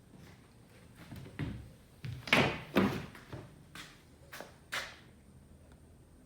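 A series of knocks and thuds, about seven, each one short and sudden. The two loudest come in the middle.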